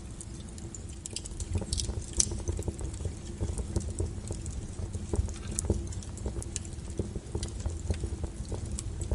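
Wood fire burning with a low rumble under frequent sharp crackles and pops, a few louder snaps about two seconds in.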